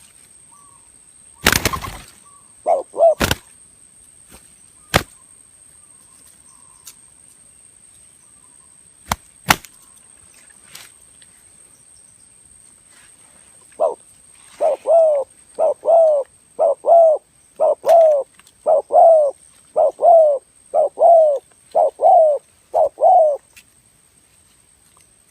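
Spotted dove (tekukur) cooing: a steady series of about ten paired low coos, each note sliding down in pitch, in the second half. Earlier there are a few sharp clicks and knocks and a couple of short coo notes.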